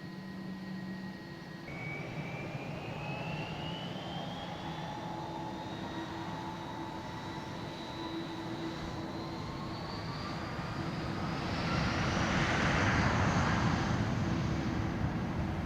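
Jet airliner taking off: its engines spool up with a rising whine, and the noise grows louder to a peak near the end as the aircraft accelerates down the runway and passes by.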